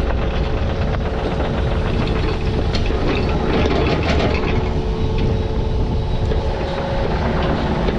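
Heavy digging machine's diesel engine running steadily under work, with scattered clanks and rattles from the machine.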